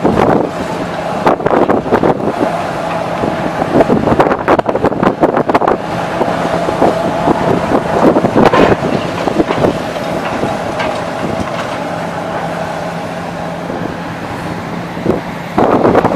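Demolition machinery working: a heavy diesel engine running at a steady pitch, with irregular crackling and knocking from debris being broken and moved. Wind buffets the microphone.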